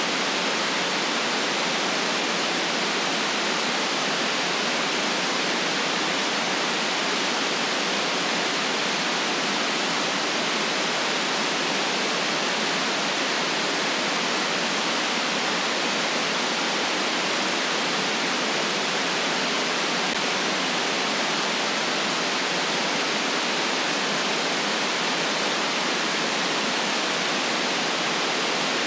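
Steady, unchanging white noise: an even electronic hiss without any deep rumble.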